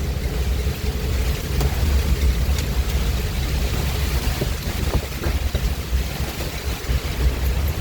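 Heavy rain falling in strong wind: a steady hiss of rain with a low, gusting rumble of wind buffeting the microphone and a few scattered sharp taps.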